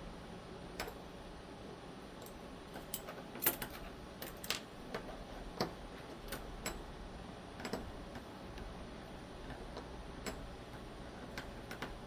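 Small metal parts of a disassembled folding knife clicking and tapping together as it is being reassembled by hand: irregular light clicks, with a cluster of louder ones a few seconds in.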